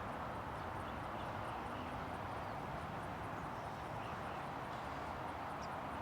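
Steady outdoor airport ambience: an even rushing hiss with faint bird chirps and a soft, rapid high ticking, about three ticks a second.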